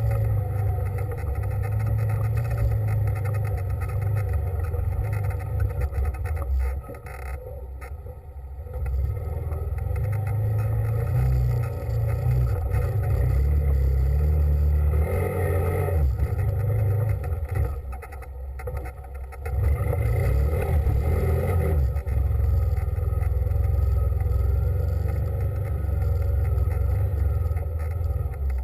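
A vehicle engine running as it drives along, with a steady low rumble that eases off twice, briefly, about a third of the way in and again past the middle.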